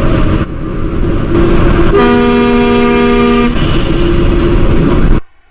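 A vehicle horn honking in a held blast of about a second and a half, with a fainter horn tone before and after it, over loud steady road noise. The sound cuts off abruptly about five seconds in.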